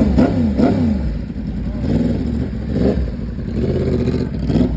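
Yamaha MT-10's crossplane inline-four engine revved in short throttle bursts, its pitch climbing and dropping back several times, with two quick blips near the start.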